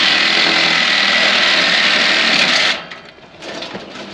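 Handheld power tool running hard on a stuck exhaust bolt, then cutting off abruptly about two and a half seconds in, followed by a few light clicks and knocks.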